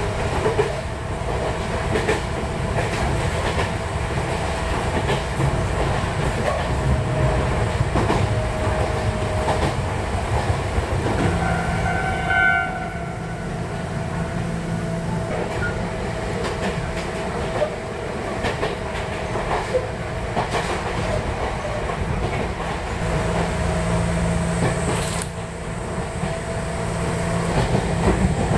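A train running on rails: a steady low rumble with recurring clicks, and a brief pitched tone about eleven seconds in.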